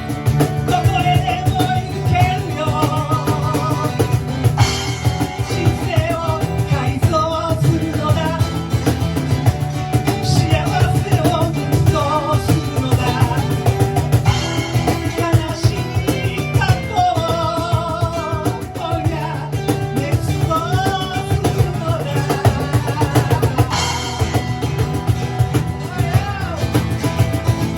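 Live band music with a steady beat on a drum kit, guitar, and a wavering sung melody over it.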